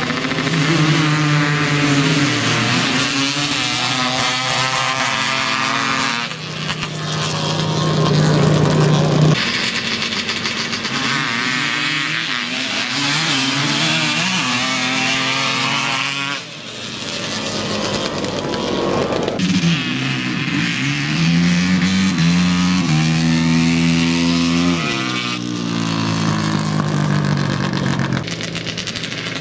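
Dirt bike engines running hard at the drag strip, revving and accelerating, their pitch climbing and dropping back several times as they shift and as runs come and go.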